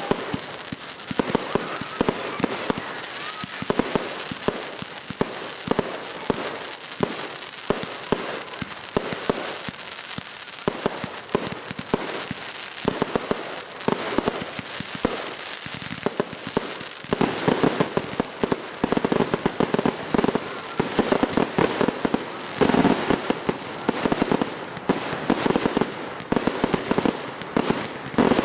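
Fireworks going off in rapid succession: a continuous run of bangs and crackling, growing denser and louder in the second half.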